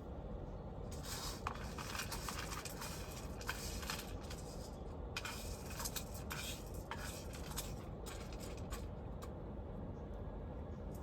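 Irregular light clicks and crinkly rustling, busiest in the first half and thinning out later, over a steady low background hum.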